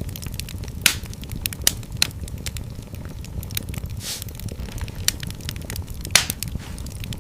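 Wood fire crackling in a fireplace: frequent sharp pops and snaps over a steady low rumble of the flames, with louder pops about a second in, at about two seconds and at about six seconds, and a short hiss around four seconds.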